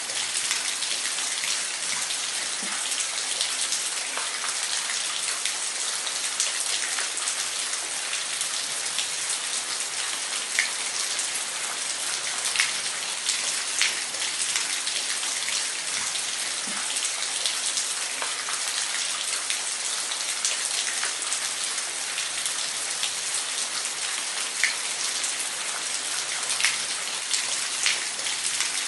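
Falling water hissing steadily, with many small splashes of single drops scattered through it.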